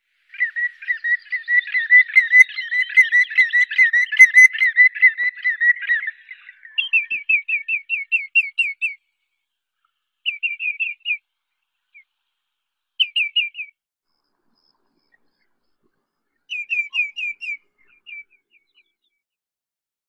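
Bird calls, taken for a common greenshank's: a rolling, wavering whistle for about six seconds, then short runs of clear, quick whistled notes, each dropping in pitch, at about five a second, with pauses between the runs.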